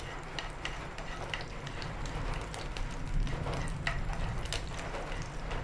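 Halved cashew nuts sizzling in hot ghee in a frying pan on a low flame, with scattered small crackles and pops. A steady low hum runs underneath.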